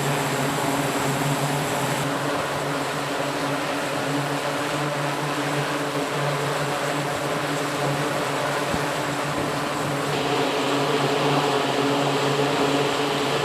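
E-2D Advanced Hawkeye's twin turboprop engines running, their propellers giving a steady drone with a hiss over it, slightly louder in the last few seconds.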